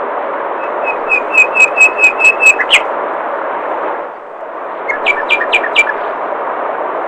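Steady rush of flowing water with a songbird repeating a short clear note about eight times, getting louder and ending on a quick upward note, then a shorter run of four notes about two seconds later. The water sound dips briefly between the two runs.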